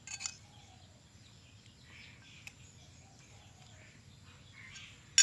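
Faint outdoor ambience with scattered distant bird chirps. A short sharp click sounds just after the start, and a much louder one right at the end.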